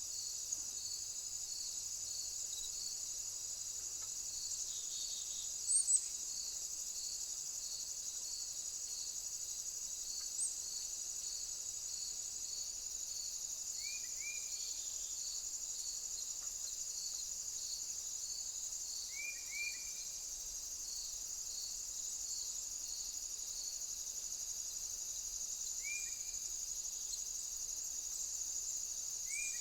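Insects, crickets among them, trilling without a break in a high, steady chorus, with a separate regular chirp about once a second that stops near the end. A few short, quick bird chirps come in small groups in the second half.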